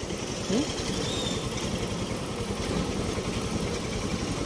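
Honda SP125 motorcycle's single-cylinder engine running steadily at low revs.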